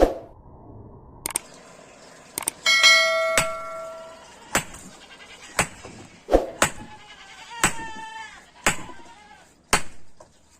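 Hand hammer striking steel on an anvil, a steady blow about once a second, with the anvil ringing for over a second after one strike early on. A wavering, bleat-like animal call sounds a little past the middle.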